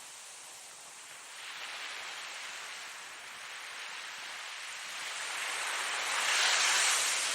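Ocean surf: waves washing in and drawing back with a steady hiss. The sound swells about a second and a half in, and swells loudest near the end as a larger wave breaks, then eases off.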